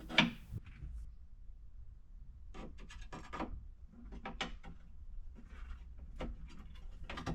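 Retaining rails being slid into place around a battery pack in its stand, making short bursts of scraping and rubbing with light knocks.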